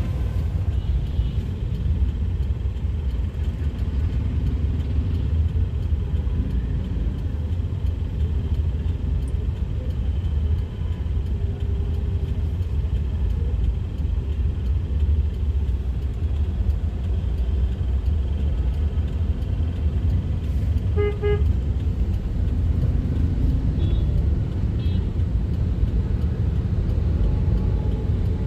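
Road traffic: a steady low rumble of vehicles, with a short car horn toot about 21 seconds in and a few fainter, higher beeps soon after.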